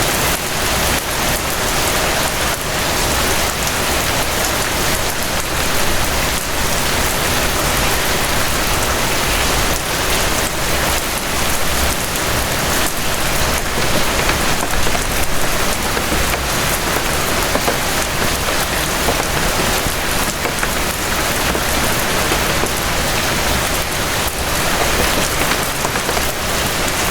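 Steady rain falling, a dense even hiss of many drops with a low rumble underneath.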